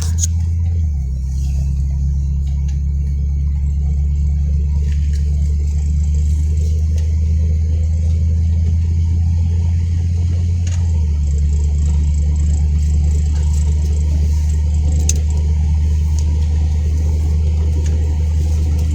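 Car cabin noise while driving: a steady low engine and road rumble, its tone changing slightly about a second in and again around eleven seconds in.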